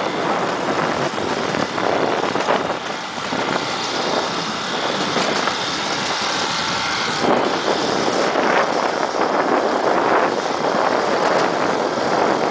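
Motorcycle riding at speed, heard mostly as a steady rush of wind on the microphone over the running engine.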